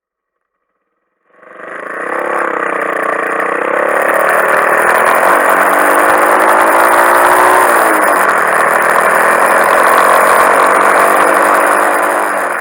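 Honda Monkey 125 single-cylinder engine running while the bike is ridden, its pitch rising and falling, with a dip and recovery about eight seconds in, over steady wind and road hiss. The sound fades in about a second in and starts fading out near the end.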